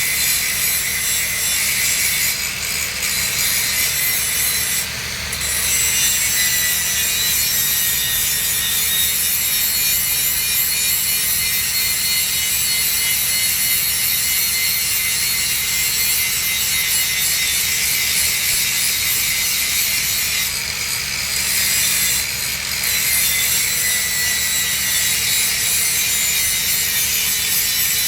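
Electric arc welding on a steel pipe joint: a continuous crackling, frying hiss from the arc, steady apart from a few brief dips.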